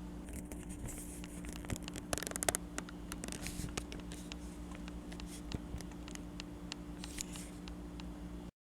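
Light clicks and scrapes of small diecast toy models being handled on a table, with a quick run of rapid ticks about two seconds in, over a steady low electrical hum.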